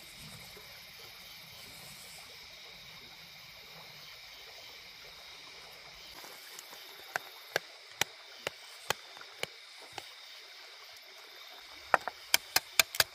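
A spice shaker being shaken and tapped over salmon: sharp clicks about two a second from roughly halfway through, then a quicker run of louder taps near the end, over a steady background hiss.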